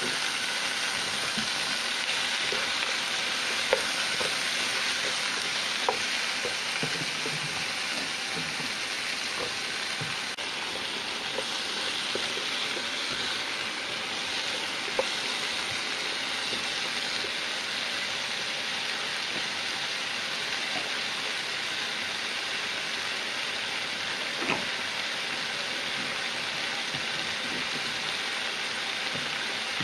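Papaya slices frying in a wok, a steady sizzle as they are stirred with a wooden spatula, with a few scattered sharp knocks of the spatula against the pan.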